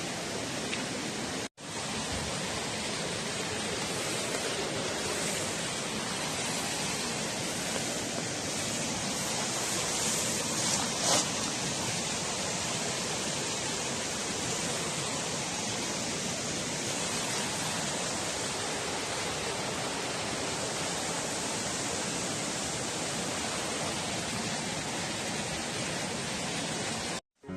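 Steady, even rushing noise with no clear pitch or rhythm, briefly cut off about a second and a half in and again near the end.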